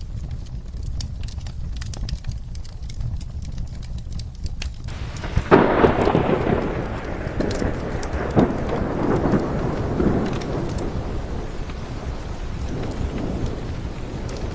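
Steady rain with a sudden clap of thunder about five and a half seconds in that rolls on and slowly fades over several seconds.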